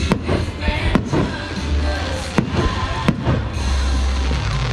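Aerial firework shells bursting with about four sharp bangs, over loud music with a heavy bass.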